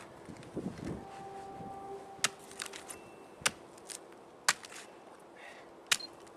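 Axe striking dry wood: about four sharp chops roughly a second apart, with lighter knocks between. It is hewing the core out of a split log for a Finnish candle fire.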